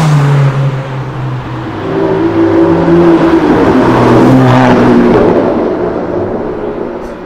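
Aston Martin Vantage engine running as the car drives slowly past, the revs raised and the exhaust note loudest in the middle, then fading as it pulls away.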